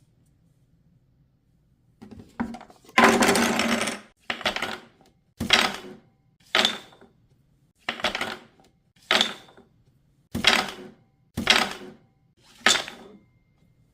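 Wooden chunky puzzle pieces clattering against the wooden board and each other. There is a longer rattle about three seconds in, then a run of eight short clacks about a second apart.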